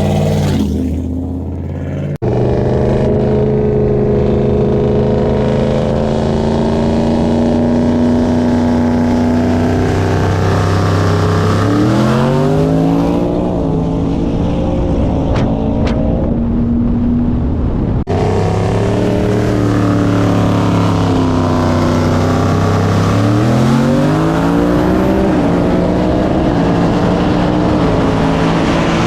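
Turbocharged engine of a car or truck in a roll race: it cruises at a steady pitch, then climbs quickly in pitch as it goes to full throttle and pulls hard. The same thing happens twice, with an abrupt cut between the two runs.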